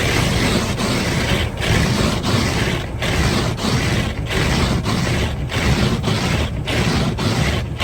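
Windshield wipers sweeping back and forth across a snow-covered windshield, a rhythmic scraping that starts abruptly, a stroke about every two-thirds of a second.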